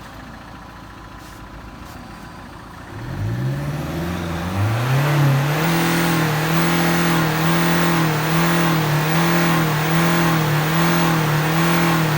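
Car engine revving up about three seconds in, then held at raised revs during a hydrogen decarbonizing treatment, its note swelling and easing in a regular rhythm a little faster than once a second.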